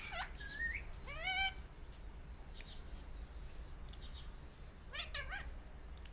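Pet parrot making short, wavering chirps and squawks: a quick run of calls in the first second and a half, then fainter single calls about every second or so later on.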